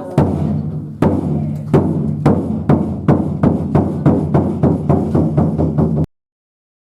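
Japanese taiko drums struck in a rhythm that speeds up from about one stroke a second to several a second, each stroke ringing low. The sound cuts off suddenly to dead silence near the end.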